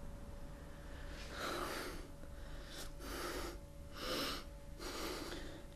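A man sobbing: four heavy, noisy breaths, about one a second, with no words.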